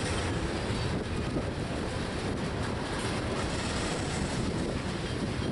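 Freight train of railroad tank cars rolling past, a steady rumble of steel wheels on the rails.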